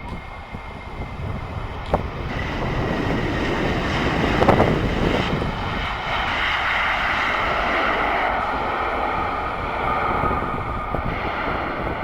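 Airliner's jet engines passing close, a growing rush of engine noise with a steady high whine, loudest about four seconds in and then holding.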